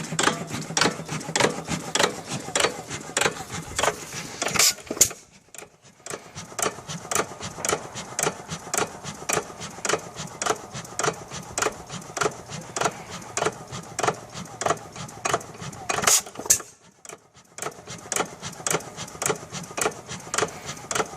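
A 5 hp Monitor hit-and-miss engine running, its moving parts clicking evenly about three times a second. Twice, about 5 s and 16 s in, a louder stroke is followed by a moment of near silence.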